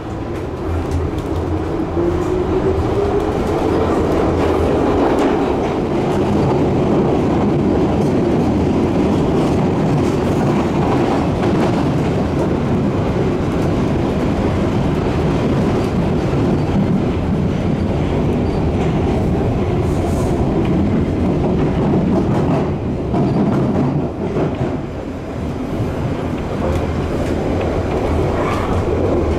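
Passenger train running along the track, its motor whine rising in pitch over the first few seconds as it picks up speed, then a steady rumble of wheels on rails.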